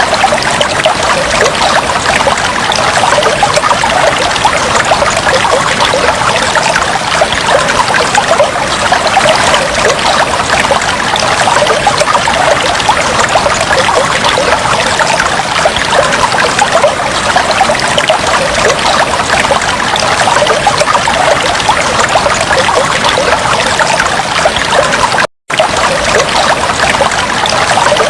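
Aquarium water trickling and bubbling in a steady, dense stream. It cuts out for a split second near the end.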